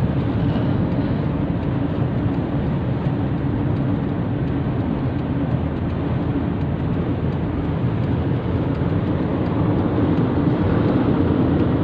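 Steady road and wind noise inside a moving car driving through strong, gusty winds, a low, dense rumble that swells slightly near the end.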